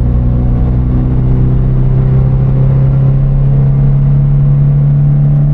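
A car engine running at a steady speed: a loud, low, even drone.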